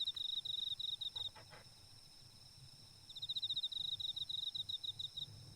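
Insect trilling in rapid even pulses, in two runs: one of about a second at the start and one of about two seconds from the middle. Fainter steady high insect tones run behind it, and a couple of soft knocks come about a second and a half in.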